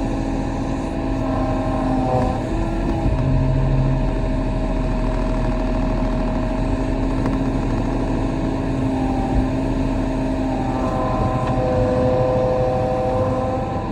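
Kobelco SK35 excavator's diesel engine running with its hydraulics whining. The pitch steps up and down a few times as the controls are worked.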